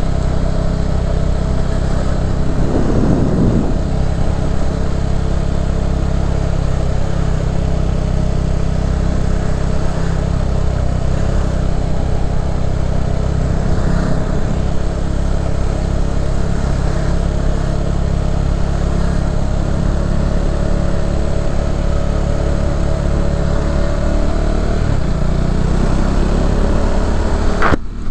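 Motorcycle engine running steadily while riding, its pitch rising near the end as it accelerates. It breaks off suddenly for a moment just before the end.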